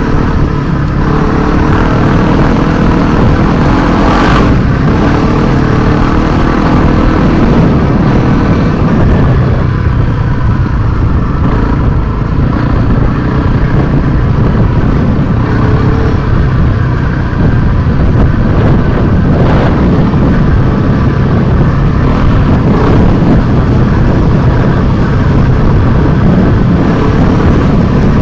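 Enduro motorcycle engine running steadily at trail-riding speed, heard from on board the moving bike with heavy wind noise on the microphone. There are a couple of short knocks, around four and twenty seconds in.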